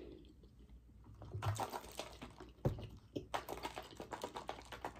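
Close-up wet chewing of fries: many soft clicks and crackles from the mouth, starting about a second in, with one sharper click partway through.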